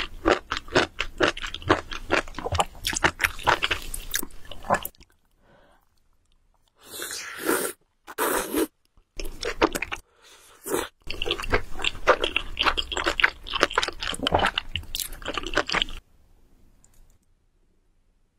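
Close-miked mouth sounds of a person eating a spicy noodle dish: wet chewing and smacking in dense runs of quick clicks, broken in the middle by a few short slurps. The eating sounds stop about two seconds before the end.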